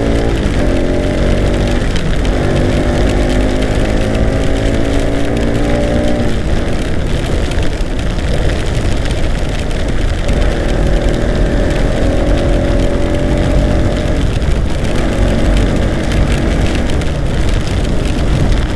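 Bajaj Pulsar NS200's single-cylinder engine under way, its pitch rising steadily twice as the bike accelerates: once from the start to about six seconds in, again from about ten to fourteen seconds. A heavy rush of wind noise runs under it.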